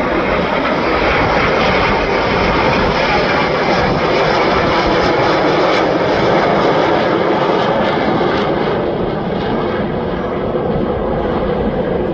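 Fixed-wing aircraft engine noise from an airshow display flight, a loud, steady rush.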